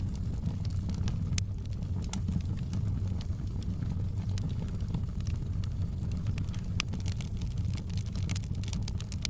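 Wood fire burning in a fireplace: a steady low rumble of the flames with scattered sharp crackles and pops, which come thicker near the end.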